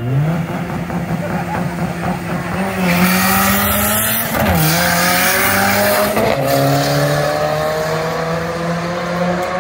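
Turbocharged 2.3-litre four-cylinder of a Mustang SVO, running 27 psi of boost, launching off the drag-strip start line and accelerating hard. Its pitch climbs through each gear, with upshifts about four and a half and six seconds in.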